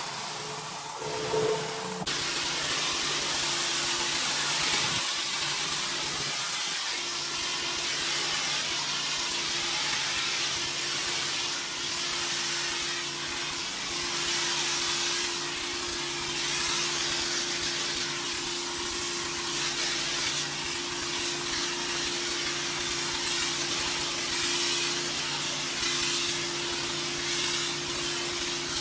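Pressure washer spraying water onto a concrete driveway: a steady hiss of spray over the machine's steady hum, the spray starting abruptly about two seconds in.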